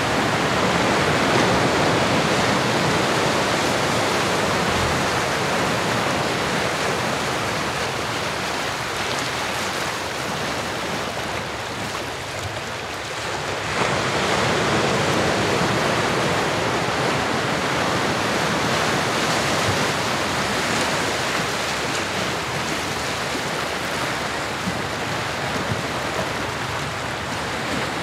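Recorded ocean surf: a steady wash of breaking waves, easing off a little about halfway through and then swelling up again.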